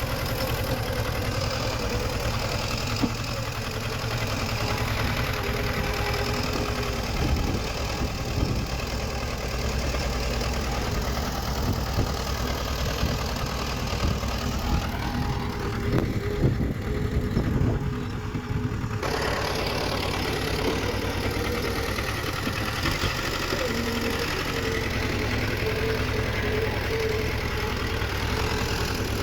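Diesel engine of heavy earthmoving machinery running steadily, with scattered clanks and knocks through the middle.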